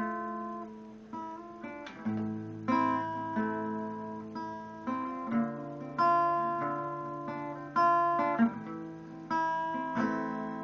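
Acoustic guitar playing a song's introduction, chords struck about once a second and left to ring.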